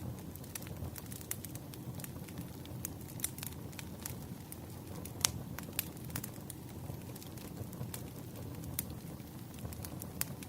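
Wood fire burning: a steady low rumble with irregular sharp crackles and pops from the burning logs, one louder pop about halfway through.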